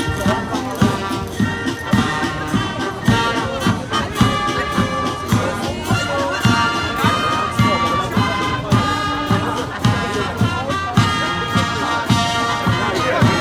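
Brass marching band playing a march, with a steady drum beat of about two strokes a second.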